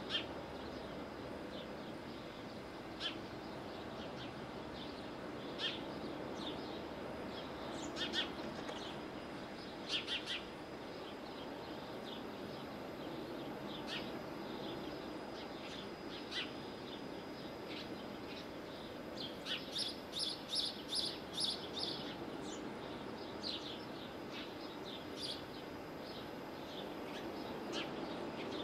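Short, high bird chirps at scattered intervals, with a quick run of about eight notes a little past the middle, over a steady low background noise.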